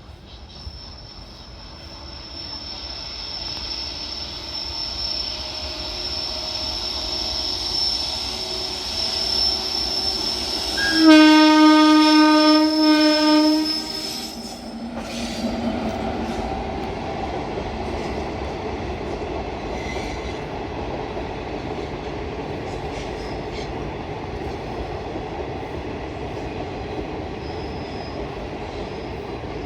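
Train approaching with a thin high whine, growing louder. About eleven seconds in, its horn sounds one loud blast of about three seconds. The train then passes close by with a steady rumble of wheels and wagons.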